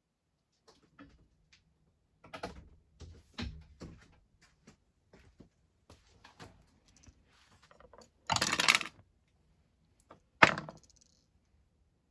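Small carburettor parts clicking and knocking as they are handled on a bench, then a short blast of compressed air about eight seconds in, followed by a single sharp hit about two seconds later.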